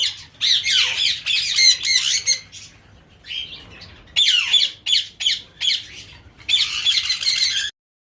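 A flock of caged breeding birds squawking and chattering: clusters of harsh, high calls broken by short pauses. The sound cuts off abruptly near the end.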